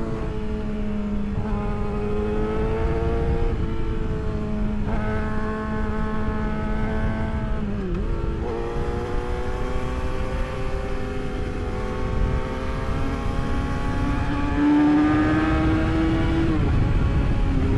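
Yamaha R6's inline-four engine running under way, its pitch holding, stepping and gliding with throttle and gear changes: a sharp dip about eight seconds in, then a slow climb and a drop near the end. Heavy low wind rumble on the helmet microphone runs underneath.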